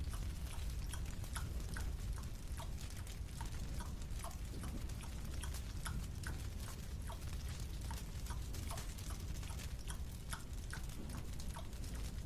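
Chewing on a marshmallow: a run of small, sharp, uneven clicks, a few a second, over a steady low rumble.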